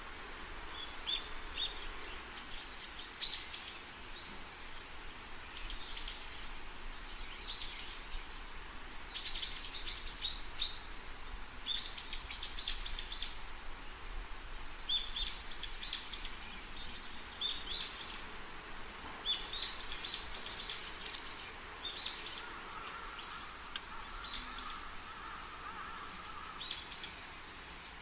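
Birds chirping: many short, high, sharp notes repeated in quick clusters throughout, over a faint low rumble.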